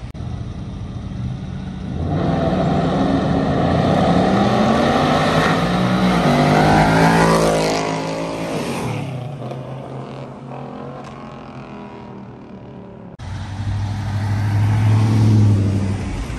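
A car accelerating hard, its engine revving higher and higher, then passing close by with the pitch dropping and the sound fading away. After a sudden break, another car's engine runs deep and steady at low revs near the end.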